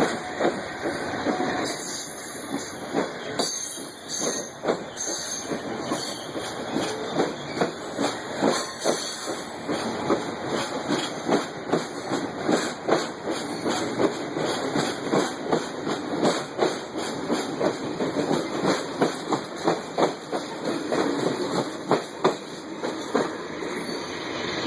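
Amtrak passenger train departing past the listener: the cars' wheels clack over rail joints in a long run of sharp clicks over a steady hiss of wheel-on-rail noise. The clacking stops near the end as the last car goes by.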